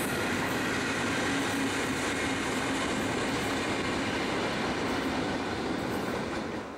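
Pacific National NR class diesel-electric locomotive at the rear of a freight train passing and drawing away, its engine running with a steady note over the rumble of wheels on rail. The sound begins to fade about six seconds in.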